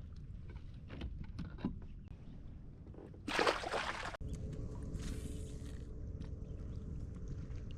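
Fishing kayak on the water: a steady low rumble of wind and water against the hull, with a few light knocks. About three seconds in, a loud rush of noise lasts about a second and cuts off suddenly, then a softer rush follows.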